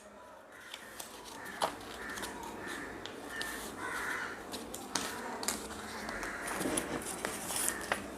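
Crows cawing faintly and repeatedly in the background, with a few soft clicks and rustles of paper being folded.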